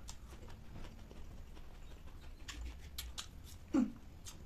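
Close-miked eating sounds from a person chewing with closed lips: scattered small wet clicks and smacks of mouth and fingers. About three-quarters of the way through comes a brief low throat sound with a falling pitch, the loudest moment.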